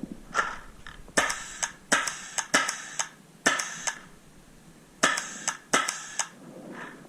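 Paintball marker firing about a dozen sharp pops in two rapid strings, with a pause of about a second between them.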